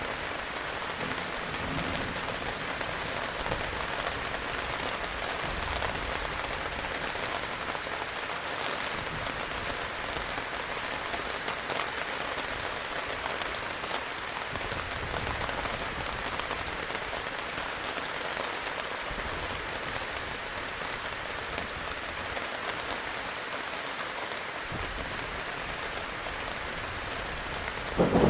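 Steady heavy rain, a dense even hiss of drops. A sudden loud clap of thunder breaks in at the very end.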